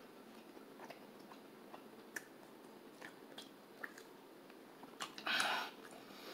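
Close-miked chewing of a mouthful of cornmeal-battered corn dog, with faint wet mouth clicks. A brief louder hiss comes about five seconds in.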